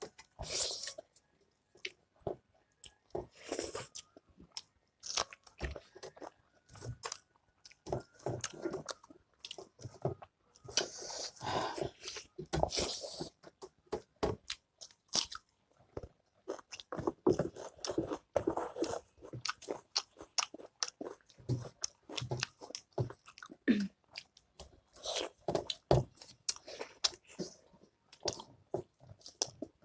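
Close-up chewing and crunching of food, mukbang-style: irregular crisp bites and mouth sounds of people eating pork achar with their meal.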